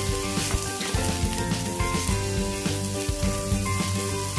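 Sliced carrot, fish cake and onion sizzling in hot oil in a nonstick frying pan as a wooden spatula stirs them, over background music.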